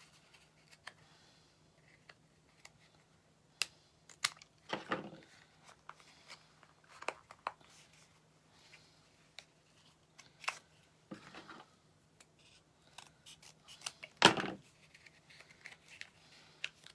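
Scissors snipping in short, irregular cuts, trimming a craft piece to fit.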